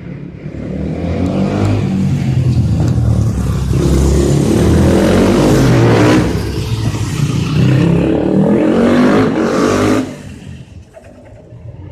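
250 cc motorcycle engines revving and accelerating, the pitch climbing again and again, loud for about nine seconds and then dropping away sharply about ten seconds in.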